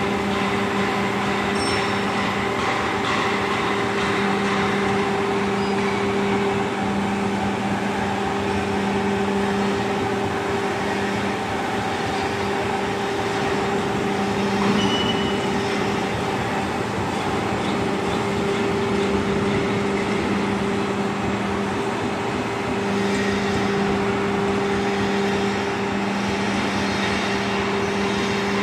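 CNC hydraulic profile bending machine running: a steady hum from its hydraulic pump and motor over an even mechanical noise.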